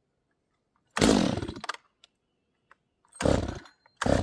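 Neotec NS846 45cc two-stroke chainsaw (a Stihl MS 250 clone) being pull-started: three short, loud goes about a second in, past three seconds and near the end, with the engine not catching and staying running.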